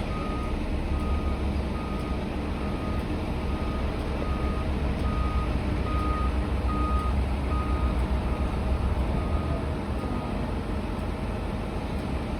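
Heavy construction machine's reversing alarm, a steady high beep about twice a second that stops about ten and a half seconds in, over the low rumble of its engine as it is manoeuvred onto a low loader.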